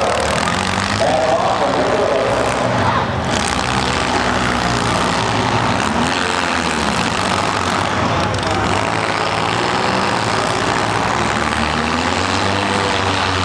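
Several small demolition-derby cars' engines running and revving together, loud and steady, with engine pitch rising and falling now and then.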